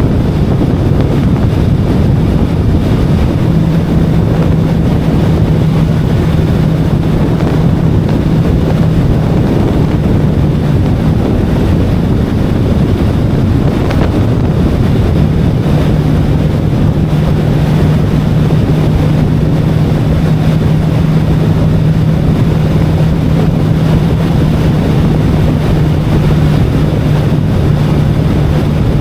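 VOGE 525DSX's parallel-twin engine running at steady cruising revs while riding, buried in heavy wind rush on the microphone. The engine's steady low note stands out for a few seconds early on and again through the second half.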